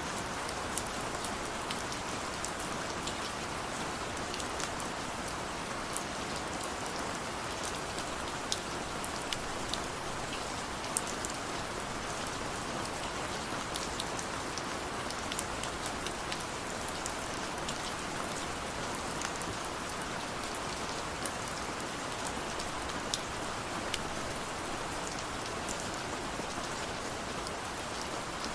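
Steady rain falling, an even hiss of rainfall with scattered individual drops ticking sharply on a hard surface.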